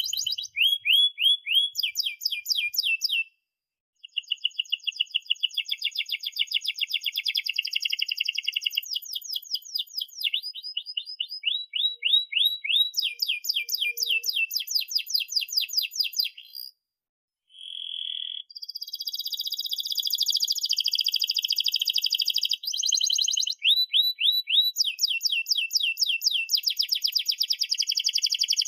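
Domestic canary singing a long, continuous song of rapid trills and quickly repeated chirps, pausing briefly about three seconds in and again about seventeen seconds in.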